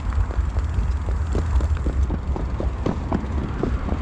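Wind rumbling on the microphone of a road bicycle being ridden, with scattered short irregular ticks.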